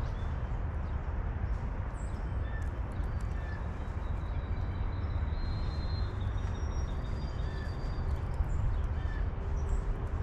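Outdoor ambience of a steady low rumble, with faint short bird chirps now and then and a few thin high bird notes.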